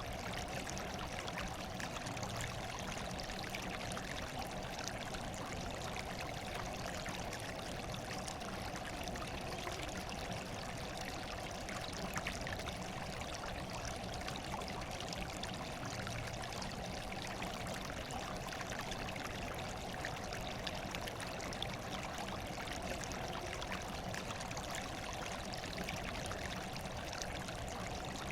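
Steady running water, a continuous stream-like trickle and pour with no breaks or distinct events.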